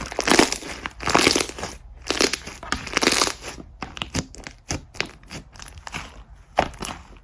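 Slime being squished and pressed by hand: noisy squishes about once a second for the first few seconds, then a run of short, quick clicks and pops.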